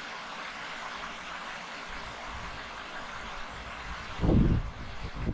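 Steady wind hiss on the microphone outdoors, with low rumbling buffeting from about two seconds in and one loud gust thump just after four seconds.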